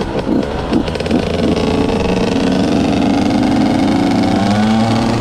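KTM 125 SX two-stroke motocross bike with an FMF exhaust: a few quick blips of the throttle in the first second and a half, then a steady pull with the engine note slowly rising as it accelerates.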